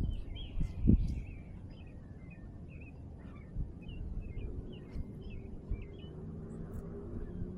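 Small birds chirping in short, scattered calls, with a few loud low thumps near the start, the loudest about a second in. From about halfway a low steady hum builds underneath.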